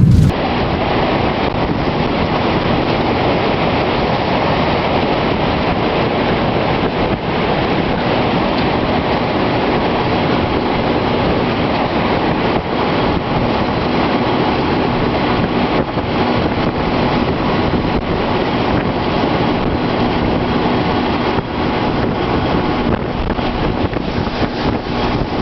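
Steady, loud rushing noise with no pauses.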